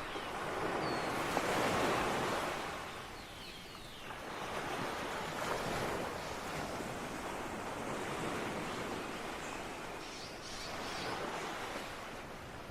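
Ocean waves breaking and washing on the shore, the surf swelling and ebbing in slow surges, the largest about two seconds in.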